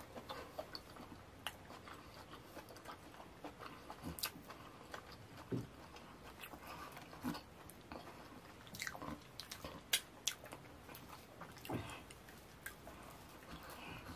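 Close-miked mouth sounds of a person eating fufu with ogbono soup: chewing with many irregular wet lip smacks and clicks.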